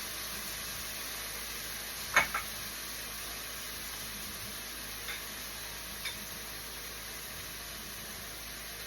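Chopped onion, bell peppers, scallion, tomato and garlic sizzling steadily in olive oil in a pot. A single sharp knock sounds about two seconds in, followed by a smaller one and a couple of faint ticks later.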